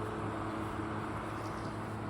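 Vacuum motor running with a steady hum, as used to suck bees out of a hive.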